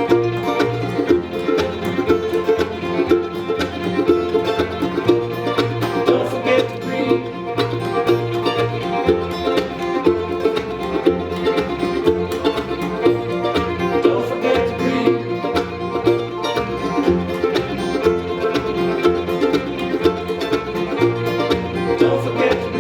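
Acoustic string-band music with a steady beat: fiddle, banjo and guitar playing an instrumental break.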